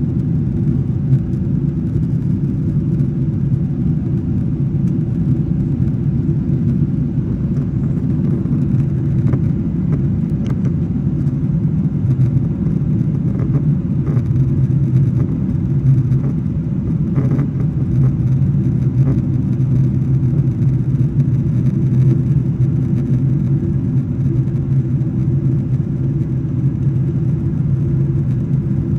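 Steady, even rumble of a Boeing 777 airliner's passenger cabin: engine and airflow noise heard from inside the cabin.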